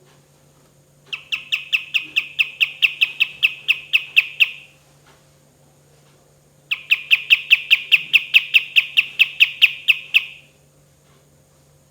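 Kapas tembak (a bulbul kept as an Indonesian songbird) calling in two bursts of rapid, evenly repeated sharp notes, about five a second. The first burst starts about a second in, the second about seven seconds in, and each runs about three and a half seconds, tailing off at the end.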